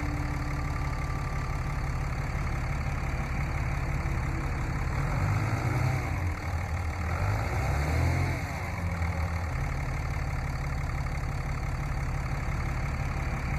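Tractor engine idling steadily, revving up and back down twice in the middle.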